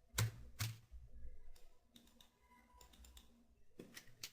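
Mouse and keyboard clicks at a computer: two sharper clicks in the first second, then a few faint scattered clicks and a small cluster near the end.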